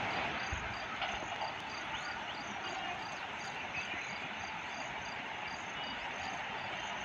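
Insects, likely crickets, chirping in an even rhythm of about two short high chirps a second over a steady background hiss.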